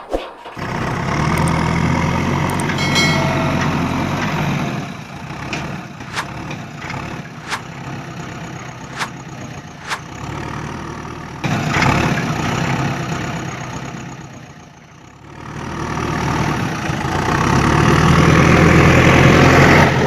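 Tractor engine running with a low, steady hum. It drops back in the middle, where a few sharp clicks stand out, then comes back and builds up loudly near the end.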